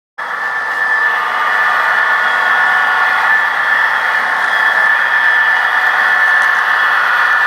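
Southern Railway model train running on a layout: a steady whirring of the locomotive's motor and wheels on the track, coming in just after the start and building over the first second.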